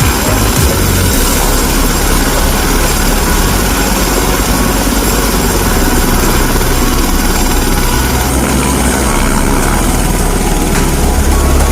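Helicopter engine and rotor noise: a loud, steady drone.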